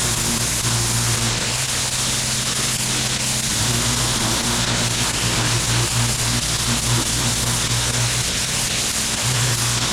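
Gas-powered pressure washer running steadily: the engine's low hum under the hiss of high-pressure water spraying.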